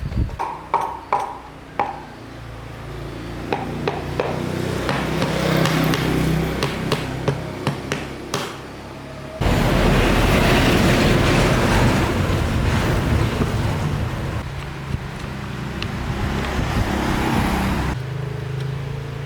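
A machine's motor running: a few sharp taps or clicks, then a steady running sound that builds over several seconds, turns suddenly much louder and harsher about nine seconds in, and settles lower near the end.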